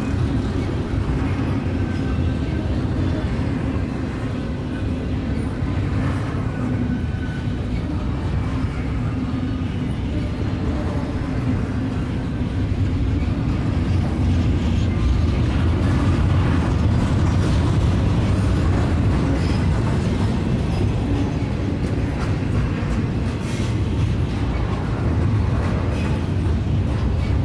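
Double-stack intermodal freight cars rolling past on the rails: a steady, continuous rumble of wheels and cars.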